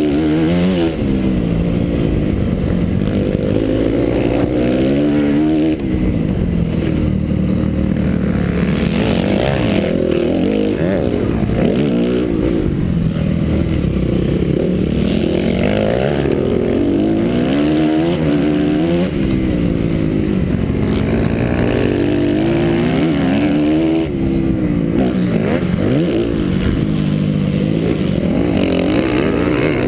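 Honda CRF four-stroke single-cylinder motocross bike engine revving up and dropping back over and over, its pitch rising and falling every few seconds as the throttle is opened and closed through the gears, heard up close from an onboard GoPro.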